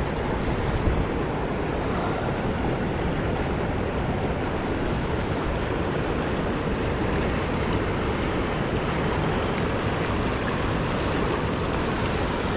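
Mountain stream rushing over rocks, a steady, even noise.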